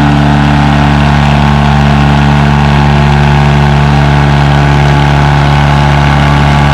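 John Deere 435's two-cylinder two-stroke Detroit diesel engine running hard at a steady pitch while the tractor pulls the sled.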